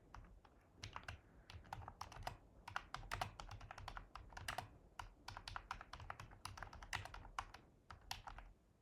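Typing on a computer keyboard: a quick, irregular run of key clicks as a command is entered at a terminal.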